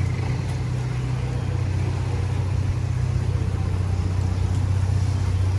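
A motor vehicle's engine running steadily close by, a low, even drone under general street noise.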